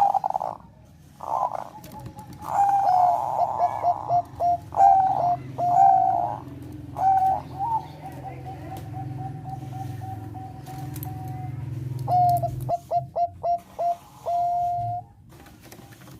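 Bangkok-type zebra dove singing: phrases of quick, staccato cooing notes, with a long even run of notes in the middle and another quick series near the end.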